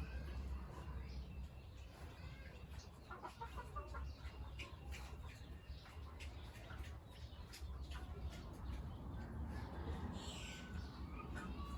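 Farmyard animal calls, clucks and chirps, over scattered clicks and knocks and a low rumble; a burst of chirping comes about ten seconds in.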